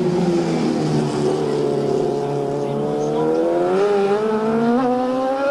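Racing superbike engine at high revs, its pitch sagging slightly over the first two seconds and then climbing steadily as the motorcycle accelerates.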